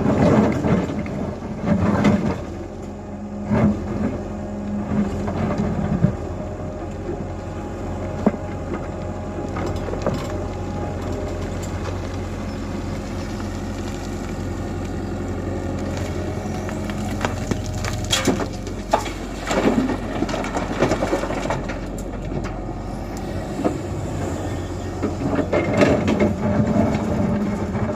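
Tata Hitachi EX120 excavator's diesel engine running steadily under load, with irregular metallic clanks and rattles from the working machine, heaviest near the start and near the end.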